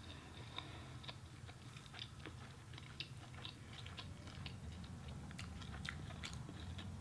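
Close-up chewing of crunchy food, with many small sharp crunches and mouth clicks over a low steady hum.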